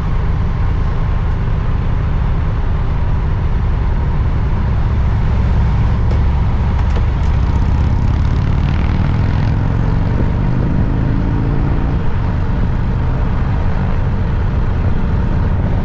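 Motorcycle engine running under heavy wind rush; its pitch climbs for a few seconds about halfway through as the bike accelerates.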